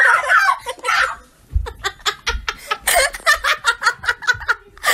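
People laughing: a high-pitched giggling voice at first, then quick short bursts of laughter, with a few low bumps about two seconds in.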